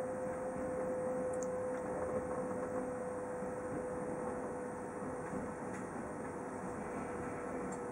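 Steady running noise of a passenger train heard from inside the carriage, with a steady hum running through it that weakens near the end.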